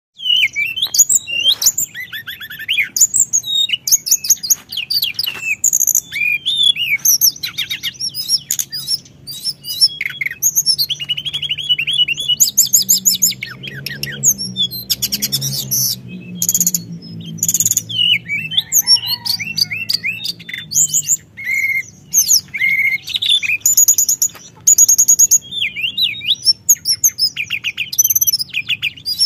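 Teledekan gunung songbird singing continuously in long, rapid, high-pitched trills and chirps with hardly a pause. A faint low hum sits under the song about halfway through.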